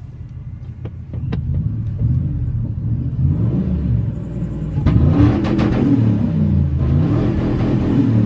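Supercharged 5.4-litre V8 of a 2000 Ford F-150 being revved through Flowmaster mufflers that have holes in them, its pitch rising and falling repeatedly. It gets louder about two seconds in and again about five seconds in.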